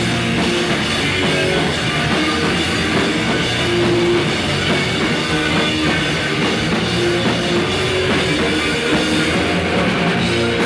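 Rock band playing, with a drum kit and electric guitar, loud and steady throughout.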